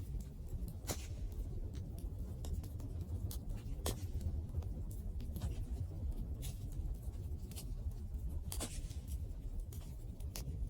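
Campfire burning: irregular sharp crackles and pops of the burning wood over a steady low rumble.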